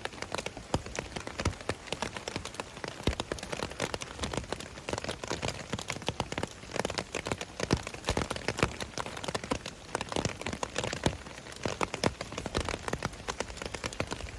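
Rain falling, with many individual drops tapping irregularly on a surface over a steady hiss.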